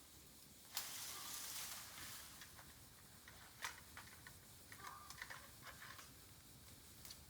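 Bamboo burning in a campfire, giving faint scattered crackles and snaps, with a louder hiss for about a second near the start and a few short high squeaks near the middle.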